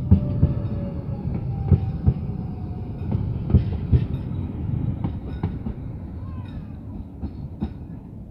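CAF multiple-unit train rolling into a station: a steady low rumble with the wheels knocking over rail joints in pairs, and faint thin wheel squeals. The sound eases off in the second half as the train slows.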